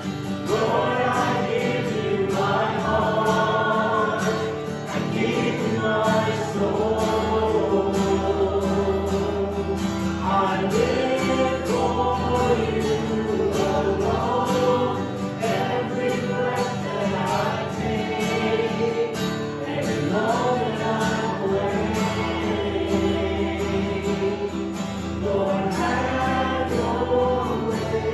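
Worship song: a group of voices singing over a steady instrumental accompaniment, with acoustic guitar strumming.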